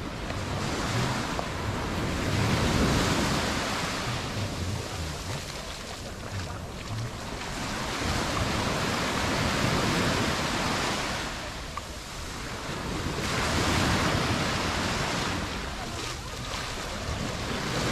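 Mediterranean surf breaking on the beach and washing back, in slow surges that swell and fade every few seconds.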